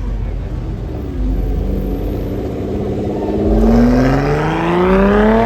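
A car engine accelerating hard on a pull away, its revs climbing steadily for about four seconds, then cutting off abruptly at the end as the driver shifts or lifts.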